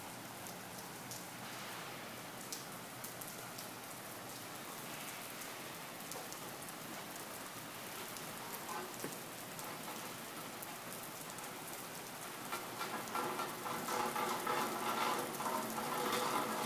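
Rainstorm pouring down, a steady hiss of rain with many close drops ticking sharply. It grows louder and heavier about thirteen seconds in.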